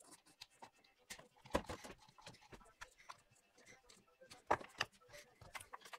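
Scattered light clicks and knocks of tools and parts being handled, with a few louder knocks about a second and a half in and again about three seconds later.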